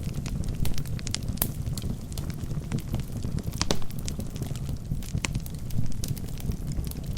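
Wood fire burning in a fireplace: a steady low rumble of flames with scattered sharp crackles and pops from the burning logs, a few louder pops standing out.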